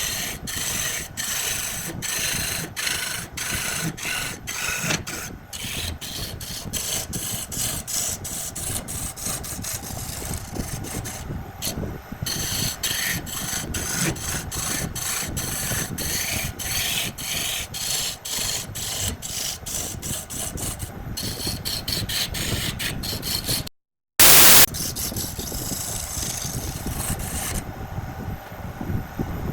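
Wood lathe turning: a cutting tool scraping and shaving a spinning wooden piece, with a rapid regular ticking about two to four times a second. Near the end the sound drops out for a moment, then a brief loud hiss.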